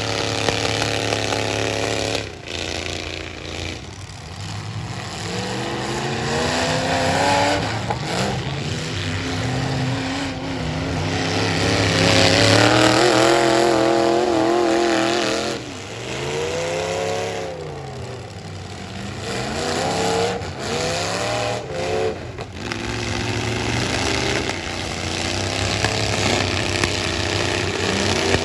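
Engines of full-size stock demolition-derby trucks revving hard and dropping back again and again, their pitch rising and falling in repeated sweeps, with the loudest surge about halfway through.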